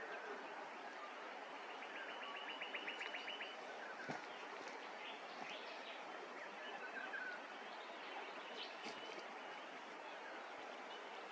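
Bush birds calling over a steady outdoor background hiss: about two seconds in, one bird gives a quick trill of about a dozen short, evenly spaced notes, followed by scattered short chirps and whistles.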